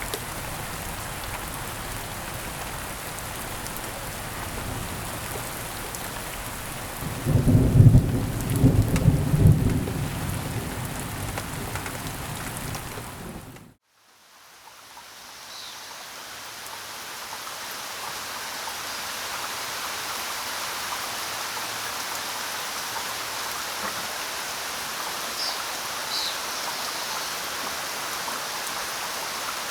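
Steady rain falling, with a loud roll of thunder about seven seconds in. About halfway through, the rain fades out to brief silence and a fresh rain recording fades back in, with a few faint high chirps near the end.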